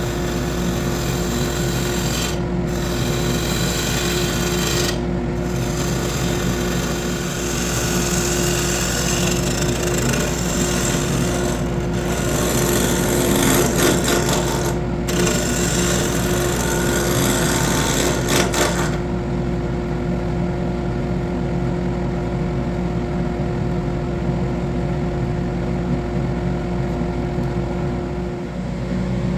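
Wood lathe running steadily with the rasping scrape of a tool or abrasive working the spinning wood, broken by a few brief pauses. About two-thirds of the way through, the scraping stops and the lathe hums on alone.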